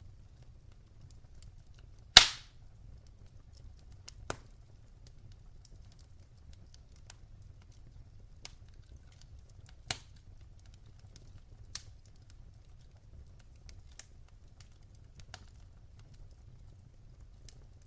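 Wood fire crackling in a fireplace: a low steady rumble with scattered sharp pops and ticks, the loudest a single snap about two seconds in.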